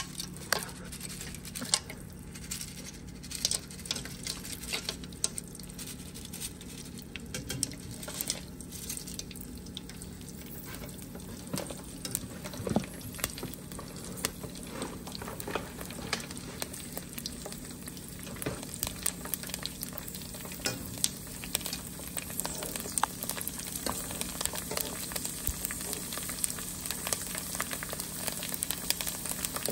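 Dried pork skin pellets deep-frying in hot oil: a steady sizzle full of sharp pops and crackles as the pellets puff up into pork rinds, growing louder and busier near the end.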